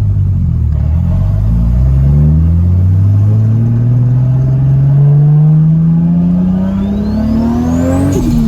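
Modified, turbocharged Toyota Supra MK4 inline-six accelerating hard, its engine pitch climbing steadily through one long pull with a thin whine rising over it, then dropping sharply at an upshift near the end.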